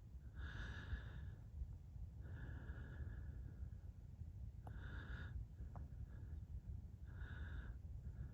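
A person breathing close to the microphone, four breaths about two seconds apart, over a low steady rumble.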